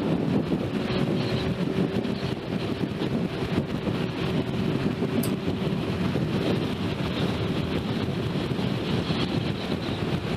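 Wind buffeting the microphone of a motorcycle riding at speed, steady throughout, with the engine running faintly underneath.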